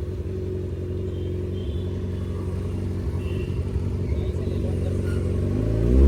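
Kawasaki Ninja sportbike engine running through a freshly fitted Austin Racing aftermarket exhaust, idling steadily, then revving up near the end with a rising, louder note.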